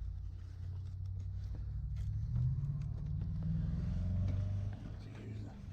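Low rumble of a 5-inch gauge miniature train running along the track, fading away about five seconds in.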